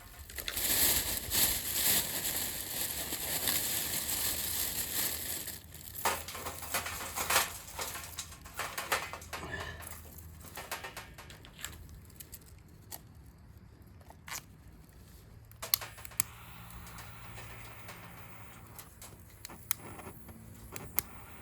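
A campfire being started with cedar kindling: rustling and crinkling for the first five seconds or so, then scattered sharp crackles and snaps.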